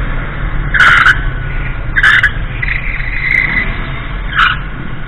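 Motor vehicle running with a steady low rumble, broken by several short high-pitched squeals, one of them held for about a second near the middle.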